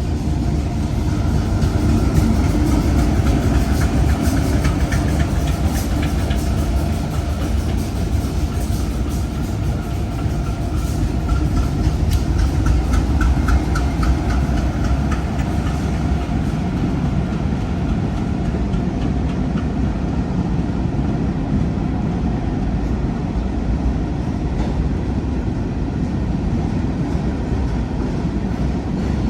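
Diesel-hauled freight train rolling past: a steady low rumble of engines and wheels on rail, with wheels clicking over the rail joints.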